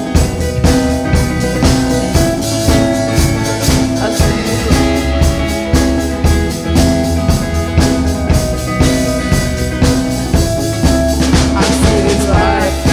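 Instrumental band music between sung lines: drum kit keeping a steady beat with guitar over it.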